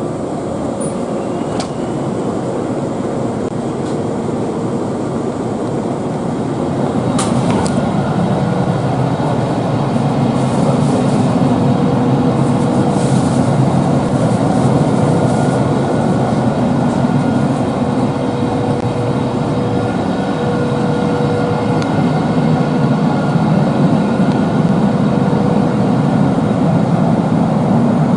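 Electric train running along the track, a continuous rumble with a faint steady whine that grows louder about seven seconds in and then holds.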